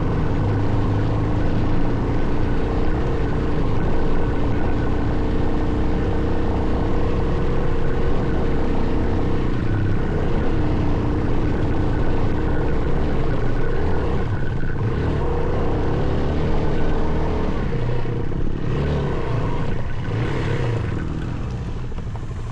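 Off-road vehicle engine running steadily at a fairly constant pace while driven along a dirt track, with wind rumbling on the microphone. The engine eases off a little near the end.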